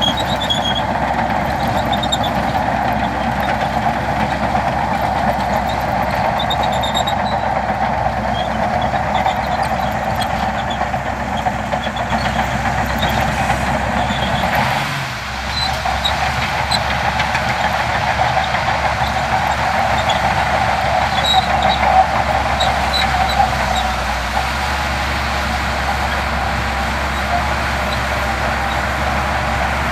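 Heavy diesel earthmoving machinery running steadily under load, a dense continuous engine noise that dips briefly about halfway through.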